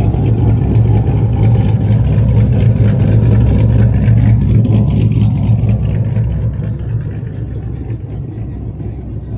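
Car engine running close by with a loud, steady low rumble and a fast pulsing exhaust beat, fading over the last few seconds.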